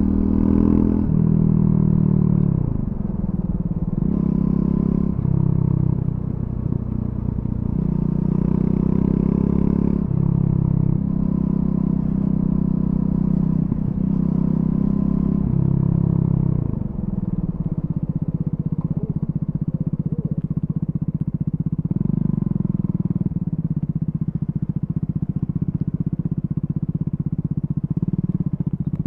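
Triumph Scrambler 400 X's single-cylinder engine through its stock exhaust, pulling up in pitch and dropping back again and again, as with shifts up through the gears. After about seventeen seconds it settles into steady, lower running.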